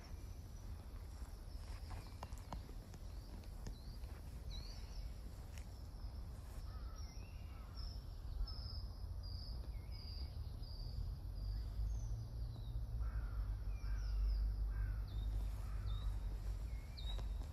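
Birds calling outdoors: many short, high chirps repeated in quick series, mostly from about four seconds in, over a steady low rumble.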